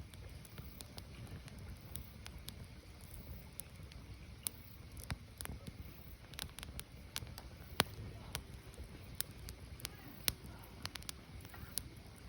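Firewood burning, with irregular sharp crackles and pops, several a second, over a low steady rumble of the fire.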